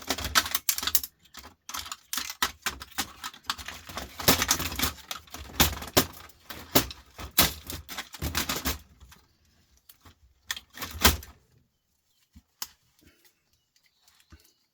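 Rapid clicking and clattering of small hard plastic and metal electronic parts being handled and pried apart by hand, dense for about nine seconds, then a loud knock and a few scattered ticks.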